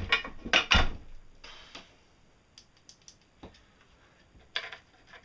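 Plastic cover and screws being fitted back onto a solar charge controller: a quick run of loud clicks and knocks in the first second, then scattered light ticks, with one more clack near the end.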